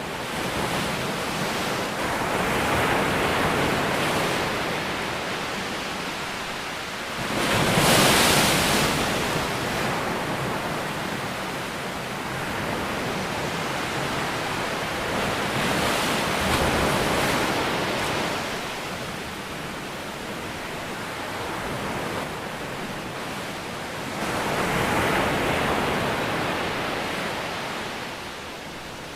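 Ocean waves breaking on a shore: a steady wash of surf that swells as each wave comes in, the biggest crash about eight seconds in and smaller ones around three, sixteen and twenty-five seconds.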